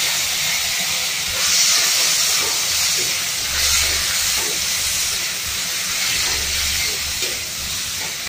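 Chopped tomatoes, onions and green chillies sizzling in hot oil in an aluminium kadhai, a loud steady hiss that swells a little as they are stirred with a perforated spatula.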